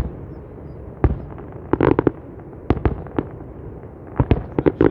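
Fireworks exploding in sharp bangs: a single one about a second in, a quick cluster near two seconds, a few more around three seconds, and a fast run near the end, over a steady low rumble.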